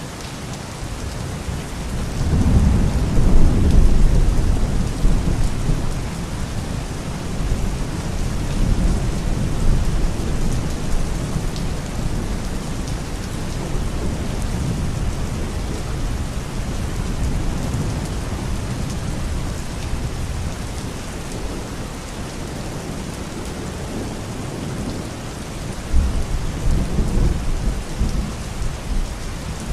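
Steady rain falling, with low rolling thunder. One long rumble builds about two seconds in and peaks around four seconds, and another rumble comes near the end.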